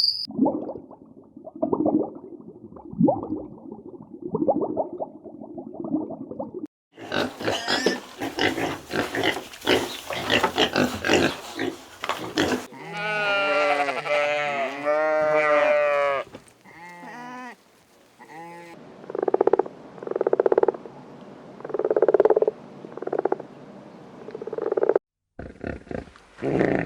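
A string of different farm animal calls, cut from one animal to the next every few seconds: low grunting first, then louder and harsher calls, arching pitched cries, and a series of evenly spaced low calls near the end.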